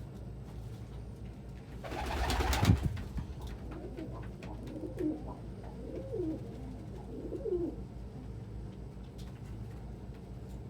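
Domestic pigeon cooing: a few low coos, each rising and falling, between about four and eight seconds in. A louder, brief rushing burst comes about two seconds in.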